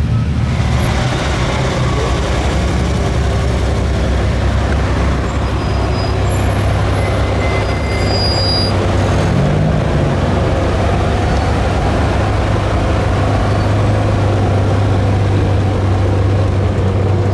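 Car engine running steadily at low revs: a deep, even drone.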